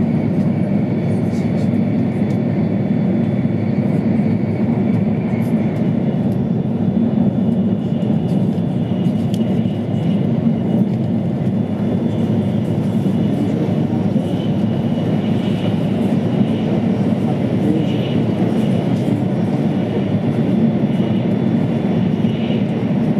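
Steady running noise inside the cabin of an E2-series Tohoku Shinkansen train at speed: a dense, even rumble with a faint high whine above it.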